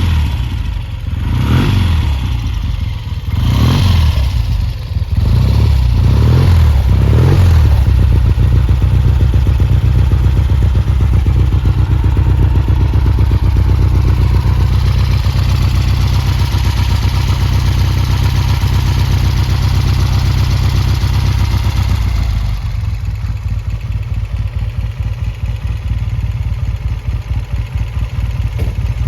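1970 Triumph Trophy 650's parallel-twin engine running just after a cold start. It is blipped up and down several times in the first few seconds, then holds a steady fast idle, and drops to a slower, lumpier idle about three-quarters of the way through.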